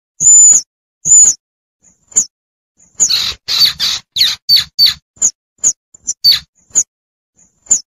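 Young tupai (squirrel) calling for its mother: short, high, squeaky chirps repeated less than a second apart, with a fast run of louder chirps in the middle. Played as a hunting lure call to draw squirrels in.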